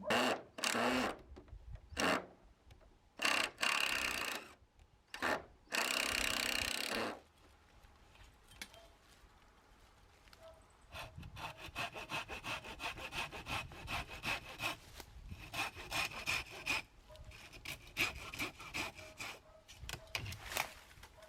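Hand saw cutting through moso bamboo: a few long, loud strokes in the first seven seconds, then after a short pause a longer run of fast, short strokes.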